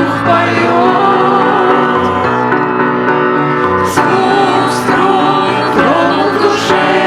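A Christian worship song: singing with instrumental accompaniment, at a steady loud level.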